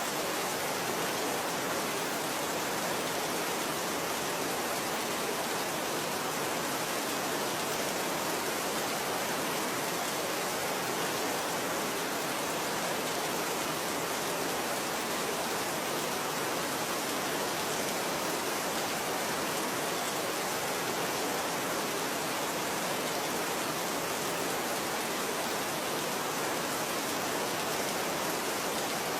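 Steady, even rain, a constant hiss with no single drops or breaks standing out.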